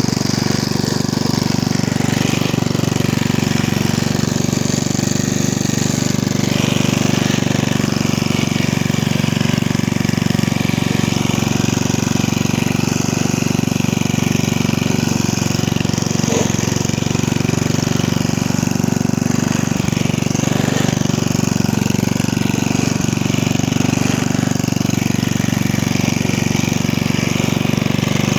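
Briggs & Stratton 5 hp I/C 206 cc single-cylinder side-valve engine on a 1979 Hayter Hayterette rotary mower, running at a steady speed.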